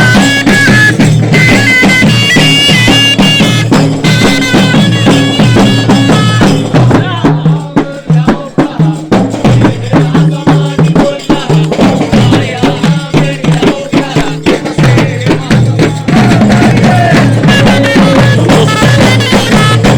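Arab zaffa wedding-procession music: bagpipes playing a melody over a steady drone, with drums. In the middle the pipe melody thins out and the drumming carries it for several seconds before the melody comes back.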